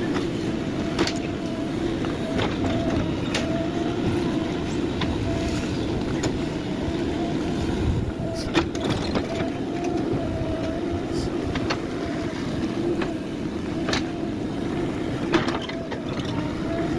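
JCB 3DX backhoe loader's diesel engine running steadily under work, with scattered sharp metallic knocks and clanks from the machine.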